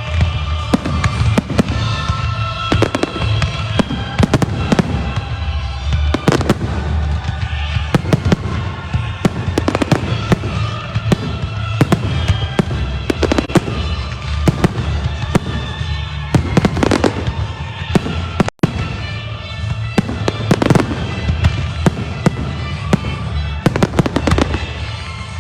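Fireworks shells bursting and crackling in rapid, continuous succession over loud music played with the pyromusical display, with a deep rumble underneath. The sound cuts out for an instant about two-thirds of the way through.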